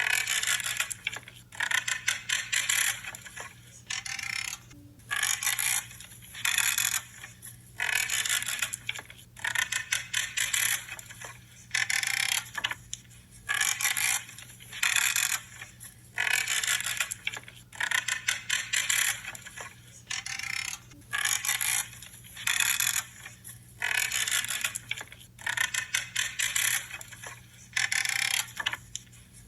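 Branches being cut, one after another, each cut a short creaking, crackling crunch lasting about a second, repeating every second or two.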